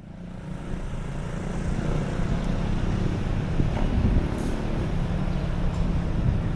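Outdoor street ambience dominated by a steady low rumble, fading in over the first second.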